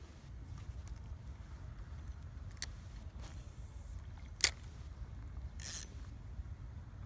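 Wind buffeting the microphone as a steady low rumble, with a few sharp clicks, the loudest about four and a half seconds in, and a brief hiss near the end.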